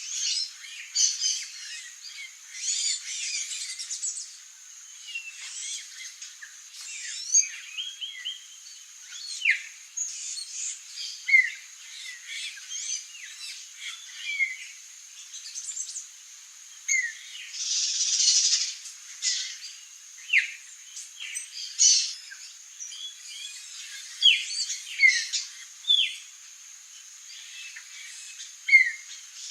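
Songbirds chirping and calling: many short, quick notes, several of them sharp down-slurred chips, scattered throughout, over a faint steady high-pitched tone.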